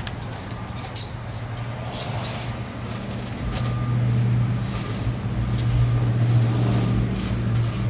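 A heavy truck engine running steadily at idle, its hum growing louder about halfway through, with a few short sharp sounds in the first two seconds.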